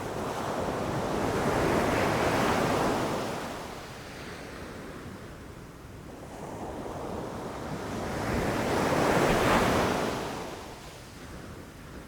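Ocean waves breaking on a beach: two waves crash in and wash back, the first loudest about two seconds in, the second about nine seconds in.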